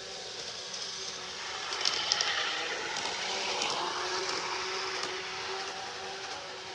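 G-scale garden model train running on its track: a steady motor hum with wheel noise that swells to its loudest a few seconds in, then eases, with a few sharp clicks about two seconds in.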